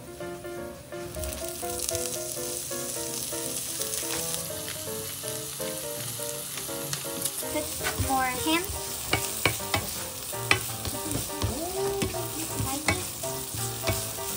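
Shrimp sizzling in hot oil with garlic and dried chillies in a nonstick frying pan, the sizzle swelling about a second in. From about halfway on, a spatula scrapes and clicks against the pan as the shrimp are stirred.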